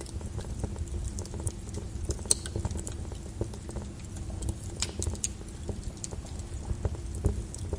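Lava crackling and popping irregularly over a low, steady rumble, with a couple of sharper cracks about two and five seconds in.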